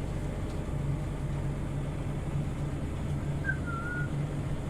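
Scania OmniLink city bus engine running steadily as the bus drives along, with a low even hum. A short, faint, high chirp sounds about three and a half seconds in.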